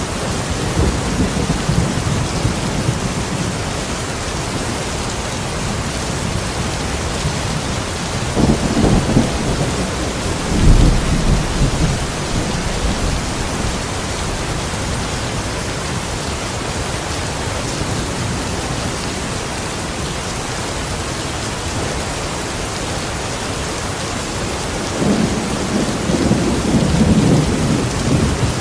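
Steady heavy rain with low rolls of thunder: one rumble about eight seconds in running into a stronger one around eleven seconds, and another building near the end.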